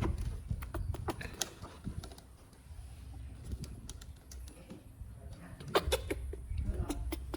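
Scattered light clicks and taps, with a few louder ones close together about six seconds in, over a low rumble.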